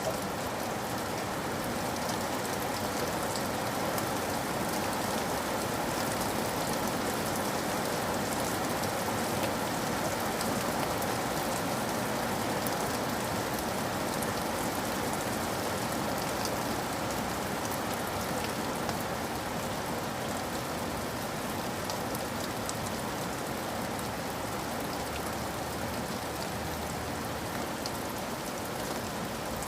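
Steady rain falling on a roof, an even hiss scattered with many small drop taps.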